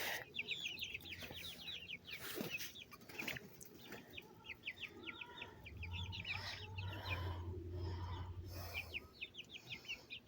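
Flock of young chickens peeping, many short high falling calls in quick runs, with a low hum from about six to nine seconds in.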